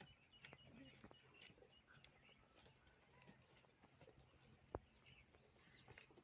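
Faint outdoor ambience with birds chirping: a quick run of short repeated notes in the first couple of seconds, then scattered short rising chirps, with a few faint knocks and one sharper click near the end.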